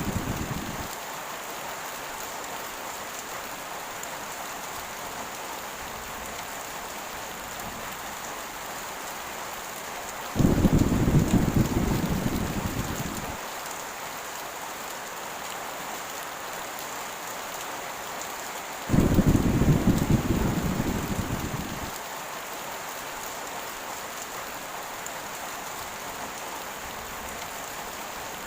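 Heavy rain falling steadily as an even hiss, with thunder rumbling twice, about ten and nineteen seconds in, each starting suddenly and fading over about three seconds. A rumble of thunder is already dying away at the start.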